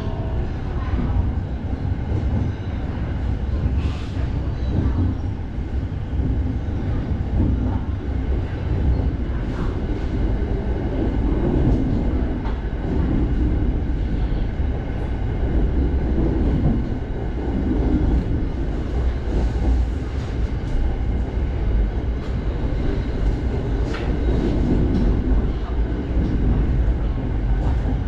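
SRT Red Line electric commuter train running, a steady low rumble with a few faint clicks.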